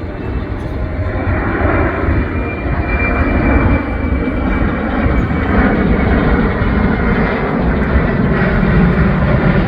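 Boeing C-17 Globemaster III's four turbofan engines: a dense jet rumble that grows steadily louder as the aircraft comes over the field.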